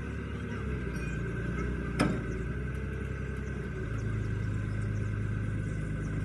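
A vehicle engine running steadily at idle, with one sharp click or knock about two seconds in.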